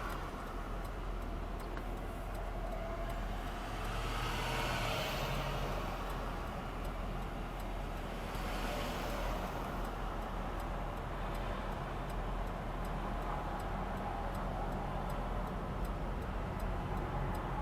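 Wind and road noise rushing into a car through all four open windows at about 40 mph, swelling twice. In the second half a faint, steady tick repeats about twice a second.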